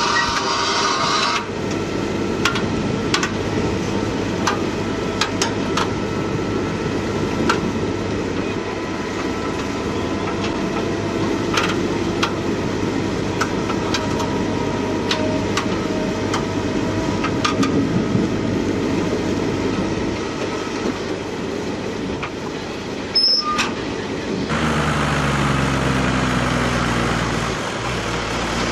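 Heavy earthmoving machinery running steadily, with scattered sharp metallic clanks and knocks, as when an excavator loads a dump truck. Near the end a diesel engine's pitch drops.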